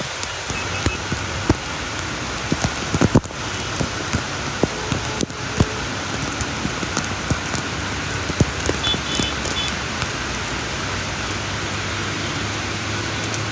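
Steady rain falling, with many scattered drops tapping sharply close by.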